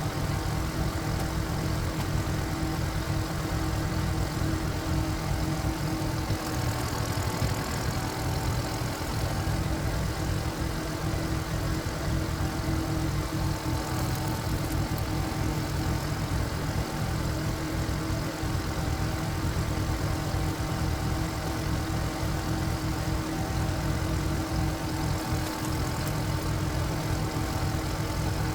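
Single-cylinder diesel engine of a walking tractor (power tiller) running steadily at an even speed.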